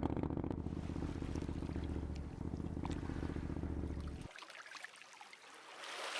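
Motorcycle engine idling with a low, rapid pulsing that stops abruptly about four seconds in, leaving a faint hiss.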